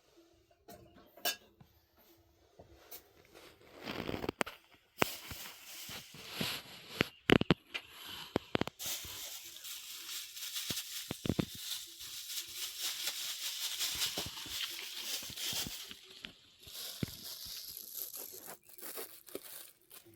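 Rustling and crinkling handling noise broken by sharp clicks and knocks, with a few louder knocks in the first half and a longer stretch of steady rustling in the middle.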